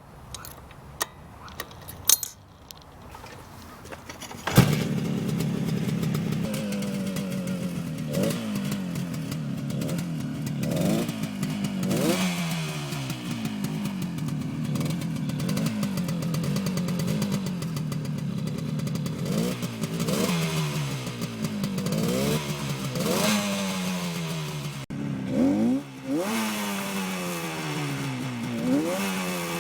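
A few clicks and knocks, then about four and a half seconds in a 1967 Yamaha YR-1's 350 cc two-stroke twin starts suddenly. It idles and is revved again and again in short throttle blips, each rising in pitch and falling back to idle.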